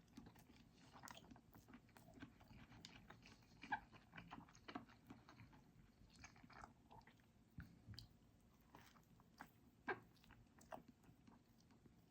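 Faint mouth sounds of a person chewing a bacon chicken mayo burger: irregular soft wet smacks and clicks, a sharper one about four seconds in and another near ten seconds.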